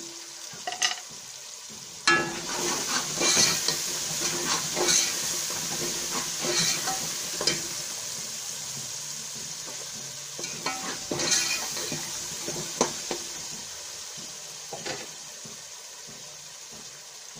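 Onion, garlic and tomato masala frying in oil in a steel pot, sizzling as a steel spoon stirs it, with the spoon scraping and knocking against the pot every second or so. The stirring and sizzle pick up about two seconds in and slowly die down towards the end.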